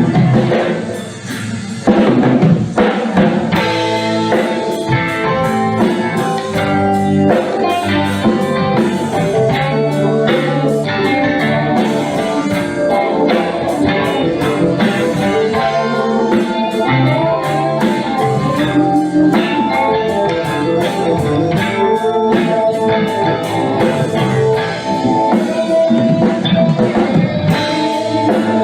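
A rock band playing an instrumental break with no vocals: a melodic guitar line over bass and a drum kit. The band thins out briefly about a second in, then comes back in full near two seconds.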